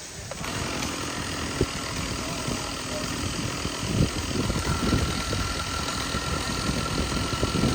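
An engine idling steadily with a rough, uneven low rumble and a few knocks. A faint steady whine joins about halfway through.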